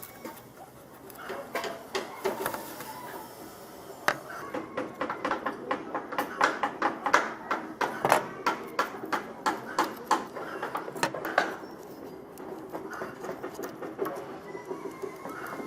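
Sharp metallic clicks and taps from hand tools working on an old hand planer's metal parts, sparse at first, then a quick run of several knocks a second through the middle before thinning out again.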